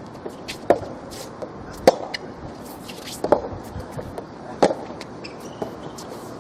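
Soft tennis rally: rackets strike the rubber ball four times, about one hit every second and a quarter, over steady background noise.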